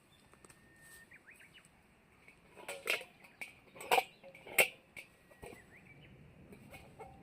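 A small bird chirping in short rising notes, twice. In between come three sharp knocks or clinks, each about a second apart: hard objects struck or set down.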